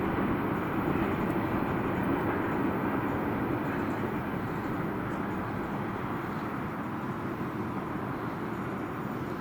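Freight train of gondola wagons rumbling along the rails, a steady noise that slowly fades as the train moves away.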